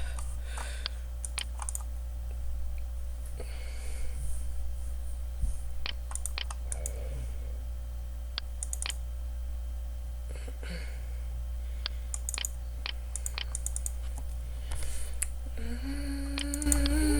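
Scattered clicks and taps of a computer keyboard and mouse over a steady low background hum. Near the end a person starts humming a held, slightly wavering note.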